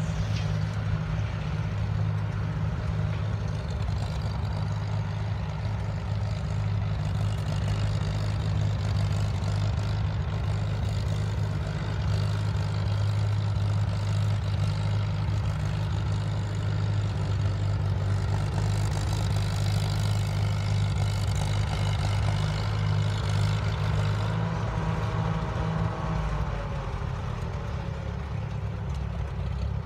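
Farmall M tractor's four-cylinder engine running steadily, easing off and getting a little quieter near the end.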